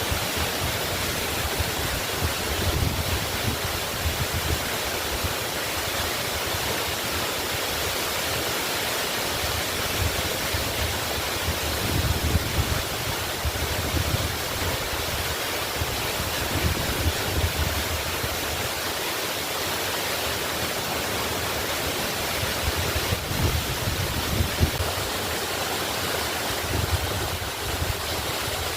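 Waterfall rushing steadily, with brief low rumbles every few seconds.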